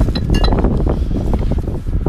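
Drinking glasses clinking together, two quick ringing clinks within the first half second. Strong wind buffets the microphone throughout.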